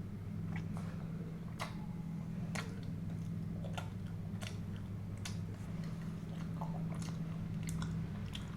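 Close-miked chewing of food, with short wet mouth clicks about once a second over a steady low hum.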